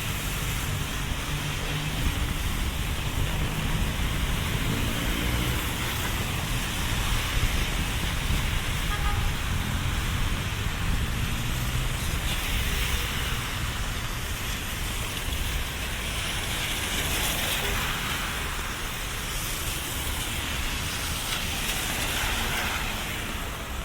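Rainy city street: traffic passing with tyres hissing on wet pavement, an engine running low in the first several seconds, and rain falling.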